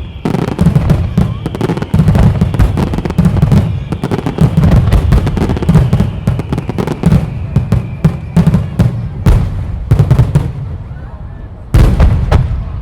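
Aerial fireworks shells bursting in a rapid, dense barrage of booms and crackles. The barrage thins out about ten seconds in, and one last loud boom comes near the end.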